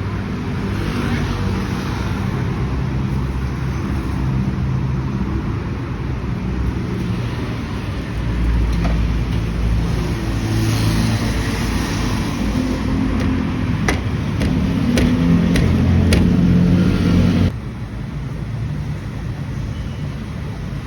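City street traffic: vehicle engines running and passing, with a few sharp clicks and an abrupt change in the sound about three-quarters of the way through.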